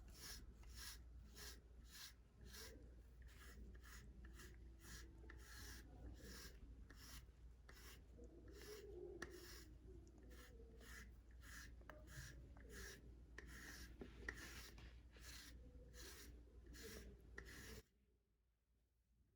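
A brush stroking through a cat's fur: quiet, even, scratchy strokes at about two to three a second, stopping suddenly near the end.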